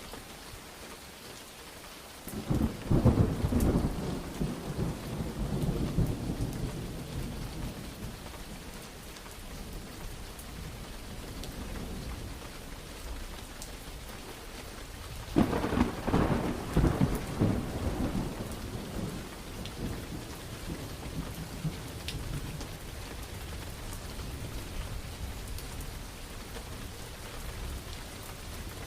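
Steady rain falling, with two rolls of thunder: the first starts a couple of seconds in, the second, sharper one about halfway through, each rumbling and fading over several seconds.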